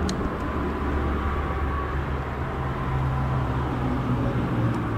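A steady low engine hum runs throughout, with a faint tick or two near the start.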